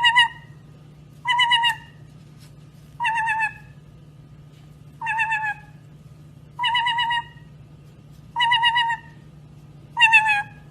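A parrot giving the same short, wavering call seven times, about every second and a half, over a steady low hum.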